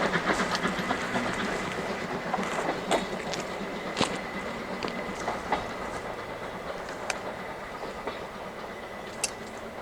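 Steam-hauled train on the Tadami Line, its C11 locomotive pulling the coaches, rolling past and slowly fading away. Sharp clicks of the wheels over rail joints come every second or two.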